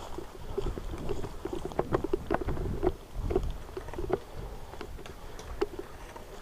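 Irregular crunching footsteps through dry grass and brush, with rustling of gear, over a low rumble of wind on the microphone.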